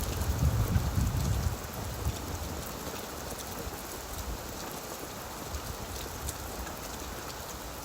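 Steady rain falling on leaves, with individual drops ticking through the hiss. A low rumble swells in the first second and a half, then fades.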